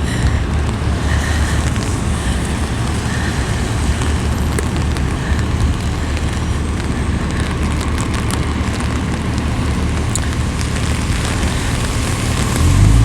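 Heavy rain falling on an umbrella held overhead, a steady crackling hiss with scattered small drop clicks, over city street traffic and a steady low rumble.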